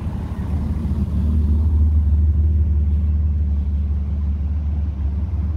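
BMW E30 3 Series coupé driving slowly past at low revs, its engine and exhaust giving a steady low rumble that swells about a second in.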